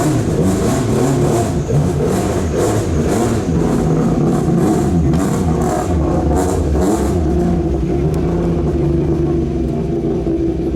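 Rally car engine running and being blipped, its note wavering up and down for the first several seconds, then settling to a steadier run.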